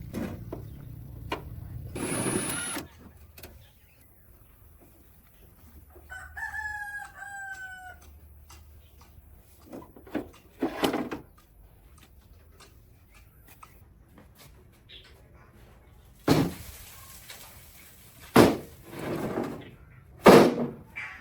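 A rooster crowing once, about six seconds in, among scattered short knocks and scrapes of workshop work.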